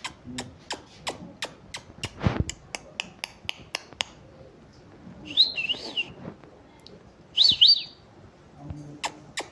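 Pet parrot chirping: two short, loud calls that zig-zag up and down in pitch, about two seconds apart. Before them comes a run of sharp clicks, about four a second, for the first few seconds.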